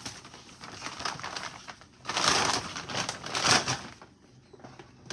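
Grocery bags and packaging rustling and crinkling as groceries are packed, loudest in two bursts about two and three and a half seconds in.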